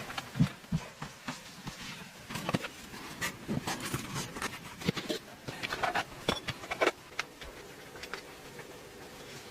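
A series of irregular clicks, knocks and rustles, the loudest knock about half a second in.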